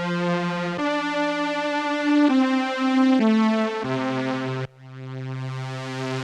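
Behringer VC340 strings/vocoder keyboard playing sustained chords that change about every second. Near the end, a lower chord fades in slowly and swells.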